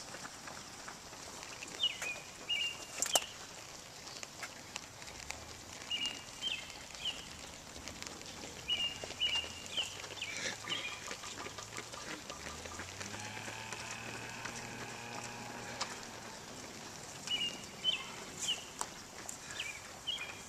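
A songbird singing short chirpy phrases every few seconds, over the light patter of runners' footsteps on the road. A faint low hum comes and goes in the middle.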